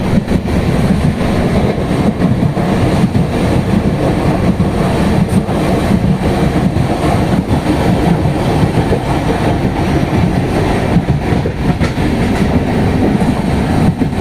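Train running along the track with a steady rumble and wheels clicking over the rails.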